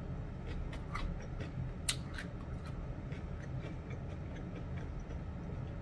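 Faint chewing and mouth smacking: small scattered clicks, one sharper than the rest about two seconds in, over a low steady hum.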